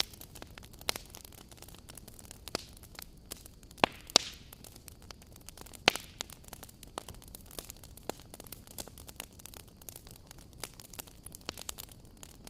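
Wood fire crackling: a steady low hiss with frequent small snaps and a handful of louder pops, the sharpest about four and six seconds in.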